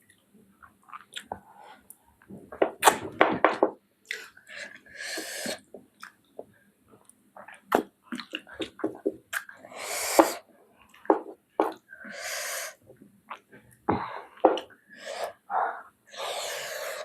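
Close-miked eating: wet chewing, lip smacks and mouth clicks, broken by about four sharp, hissing breaths.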